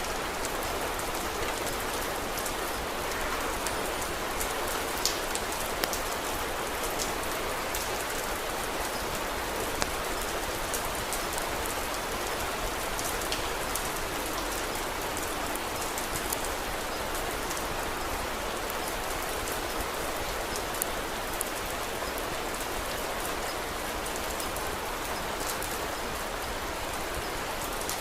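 Steady rain falling, a continuous even hiss, with scattered sharp ticks and crackles over it and a few louder pops now and then.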